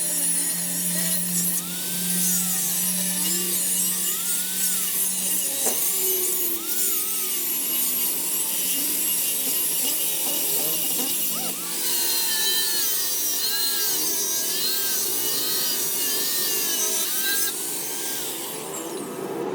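A power tool abrading the metal of a wrench being restored: a continuous rasping, grinding noise with a wavering whine, and a steady motor hum through the first five seconds or so.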